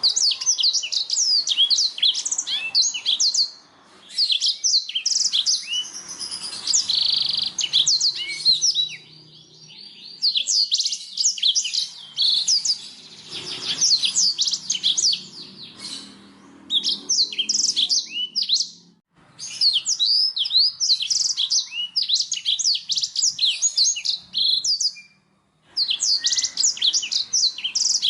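Blackthroat (black-throated canary) singing in long, fast phrases of high, sweeping notes, broken by short pauses between phrases.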